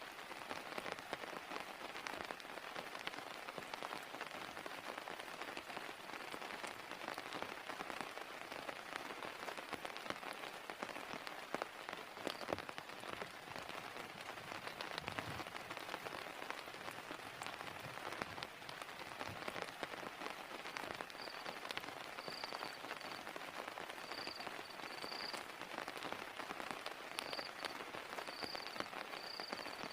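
Heavy rain falling steadily, a dense patter of many drops striking close by. From about two-thirds of the way through, a faint high chirp repeats in short pulses.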